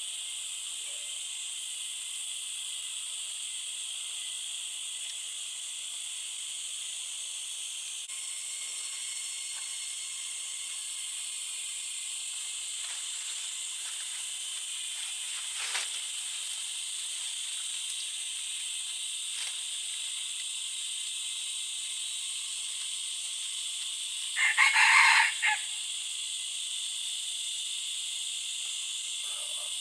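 Steady, high-pitched chorus of forest insects such as crickets or cicadas. About 25 seconds in, a rooster crows once, briefly and loudly.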